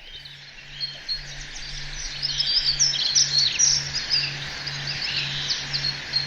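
A flock of many small birds chirping and twittering all at once, rising in level over the first couple of seconds into a dense, continuous chorus of short high calls.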